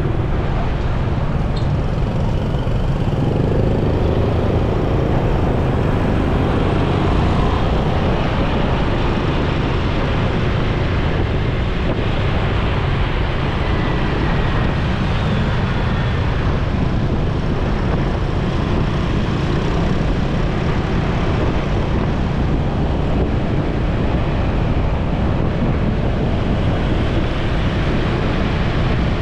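Motorcycle riding in city traffic: the bike's engine and road noise run steadily under a dense rumble of surrounding traffic.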